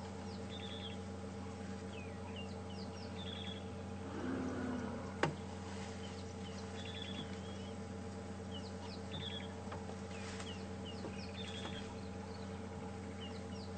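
A bird calling over and over, short high calls every couple of seconds, over a steady low hum. A single sharp click about five seconds in is the loudest sound.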